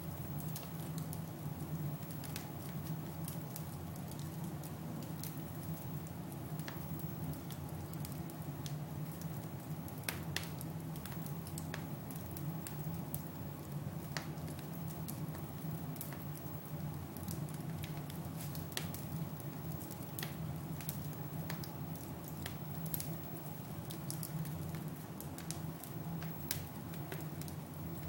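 Fire crackling in a fireplace: scattered sharp pops and snaps, irregular, over a steady low rumble.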